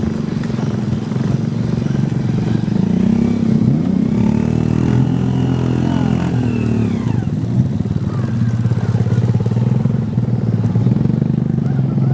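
Mitsubishi Canter light truck's diesel engine labouring steadily under load on a muddy road, revving up about three seconds in and falling back about seven seconds in.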